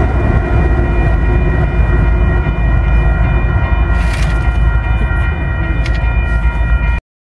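Train rolling through a grade crossing: a steady heavy rumble of cars and wheels on the rails, with a couple of sharp clicks about four and six seconds in. The sound cuts off suddenly near the end.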